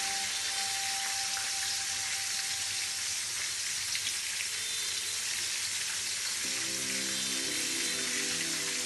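Battered shrimp sizzling steadily as they deep-fry in hot oil in a pan, over soft background music.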